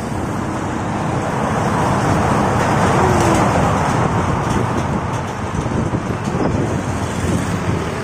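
Road vehicle passing a moving bicycle, swelling to its loudest about three seconds in, over steady wind noise on the microphone.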